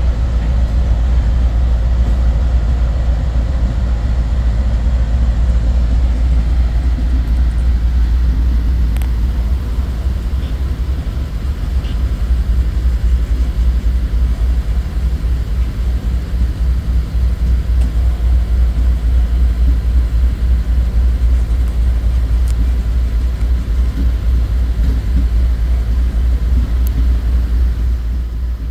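Freight train passing close by: the diesel locomotives of a six-unit lash-up rumble past, then the freight cars roll by with a steady low rumble.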